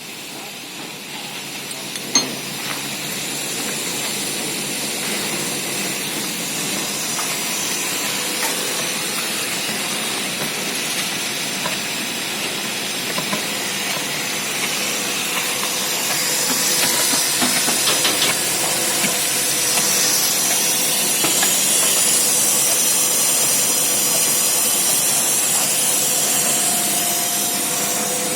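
Shotcrete being sprayed from an AS-1 Tornado shotcrete machine's nozzle: a steady hiss of compressed air and mix, with a faint steady machine hum beneath and a sharp knock about two seconds in.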